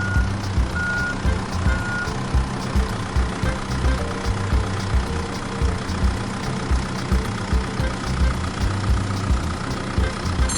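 A vehicle's engine running with a steady low chugging pulse, about three beats a second. Reversing beeps sound about once a second and stop about two seconds in.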